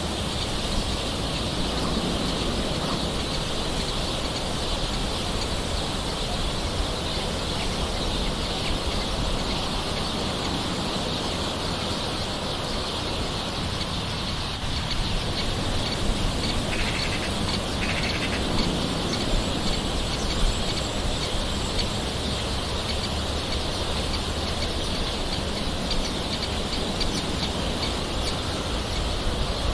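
Steady soft rain, an even hiss of patter, with birds calling in the background and a couple of short calls a little past halfway.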